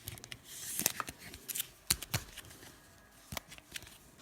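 Rustling and several small sharp clicks of a trading card and a plastic card sleeve being handled as the card is sleeved.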